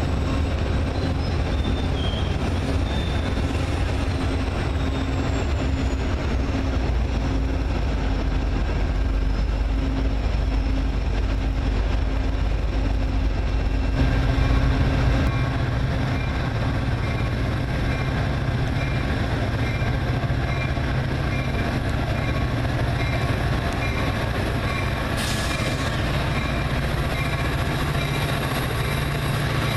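Train running at a station platform: a steady, loud low rumble whose low note steps up about halfway through. There is a brief high-pitched sound near the end.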